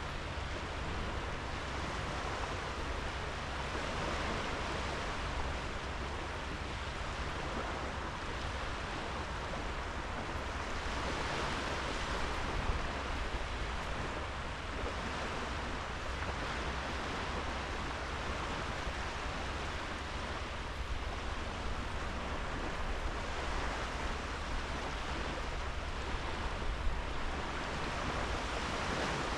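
Sea waves washing onto a sandy beach: a steady rush of surf that swells and eases slightly every several seconds.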